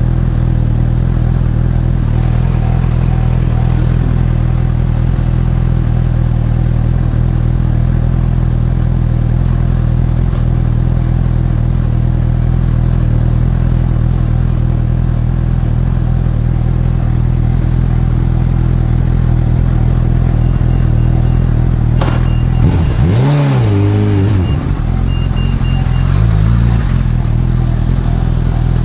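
Honda CB1000R's inline-four engine idling steadily. About 22 seconds in, a throttle blip makes the pitch rise and fall over about two seconds, and there are smaller blips near the end.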